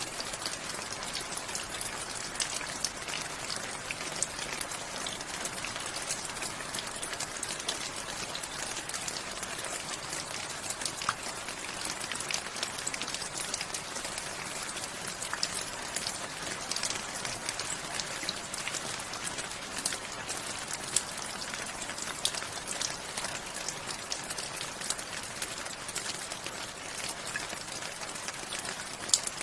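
Steady rain falling, a continuous hiss dotted with many individual drops tapping on a surface.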